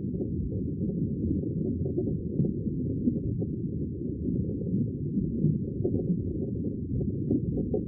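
Sea water washing in a steady, muffled rush, deep and dull with none of the usual high hiss of surf.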